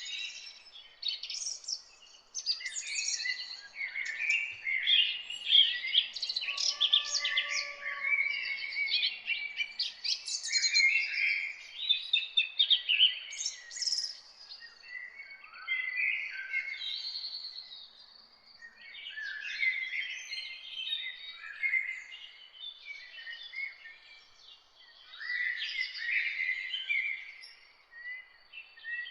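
A chorus of several songbirds singing and chirping at once, with fast overlapping chirps and trills that thin out briefly twice.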